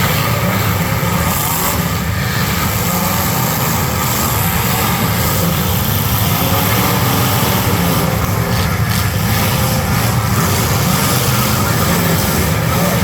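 Demolition derby cars' engines running loud and steady, a dense low sound with no break.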